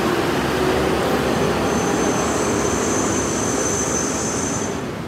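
Heavy truck's diesel engine running loud as it goes past, a thin high whine joining from about two seconds in. The sound fades near the end as the truck moves away.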